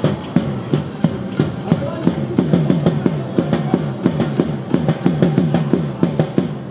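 Baseball cheer music with a quick, steady drumbeat.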